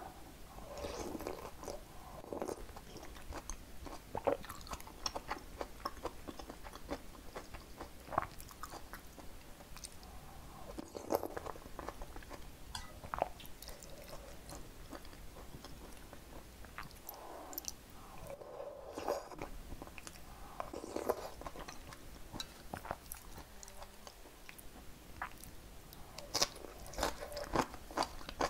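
Close-miked eating sounds: a person chewing spoonfuls of perilla seed sujebi, soft dough flakes and vegetables in a thick perilla broth, with many small sharp mouth clicks and a run of stronger clicks near the end.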